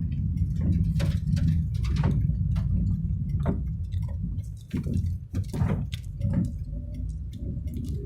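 Steady low rumble of a car driving on the road, heard from inside the cabin, with irregular short clicks and knocks scattered through it.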